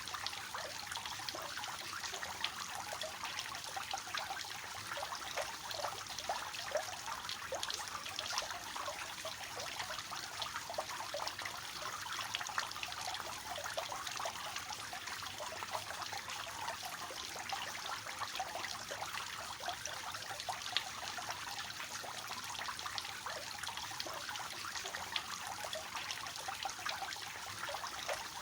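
Water from a three-tiered fountain falling and splashing steadily into the basins below, a continuous trickling splash.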